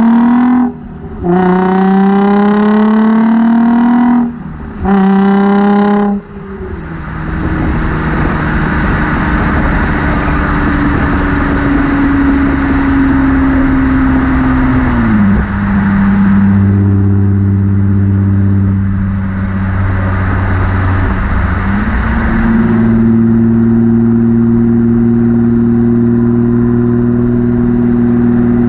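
Nissan 350Z's 3.5-litre V6 through a Motordyne aftermarket exhaust, accelerating hard with rising pitch through two quick upshifts in the first few seconds. It then cruises at steady revs, the pitch dropping about halfway through and stepping up again a few seconds later.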